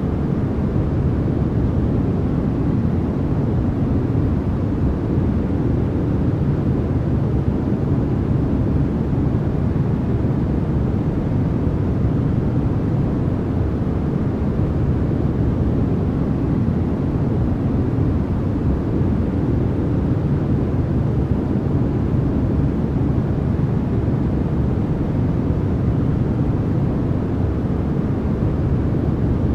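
Steady, unbroken synthetic noise played as white noise for sleep. It is weighted toward the low end, so it sounds more like a deep, even rush than a bright hiss.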